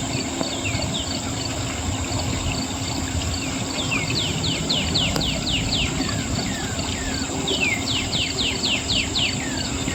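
Summer outdoor ambience: a steady high drone of crickets, with a bird giving runs of quick downslurred chirps, about half a dozen near the middle and again near the end, over a low steady rumble.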